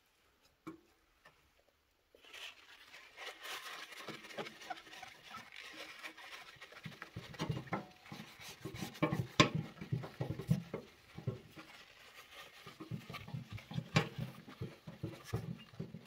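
Wet paper napkin rubbing and scrubbing the glass door of a cast-iron wood stove: an irregular rubbing with many small taps and clicks. It starts abruptly about two seconds in, after near silence.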